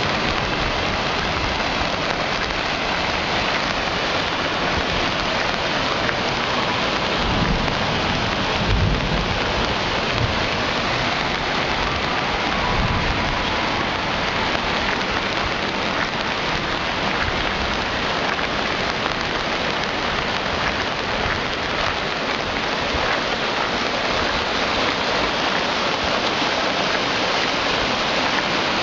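Heavy thunderstorm rain pouring down steadily, with storm water running off down the street. A low rumble of thunder comes about eight seconds in, and a fainter one near thirteen seconds.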